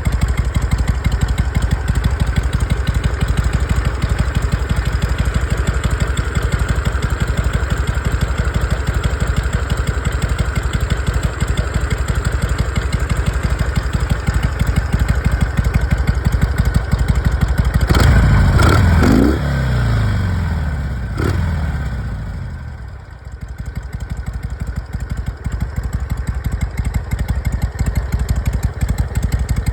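Harley-Davidson Sportster 883's air-cooled V-twin idling steadily, given one quick blip of the throttle about two-thirds of the way in, the revs falling back over a few seconds and dipping briefly before settling to idle again. It runs smoothly, having started first time on a new battery and a replaced carburetor insulator.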